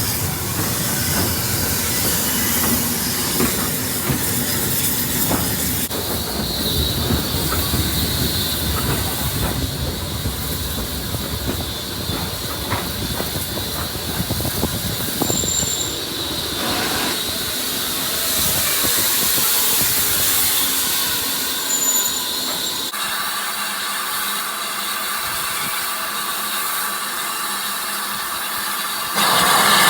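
Heritage steam train on the move: low rumble with rail clatter, then the rumble falls away in the last quarter and a steady hiss of steam remains, with a louder burst at the very end.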